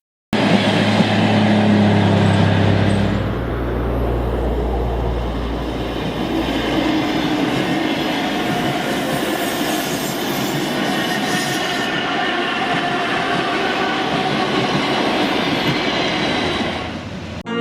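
ED4M electric train running on the rails: a steady low hum for the first few seconds, then continuous wheel and rail noise with a thin, drawn-out wheel squeal.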